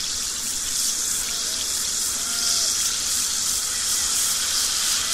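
Effervescent tablet fizzing as it dissolves in a glass of water: a steady, bright hiss of bursting bubbles that grows a little louder.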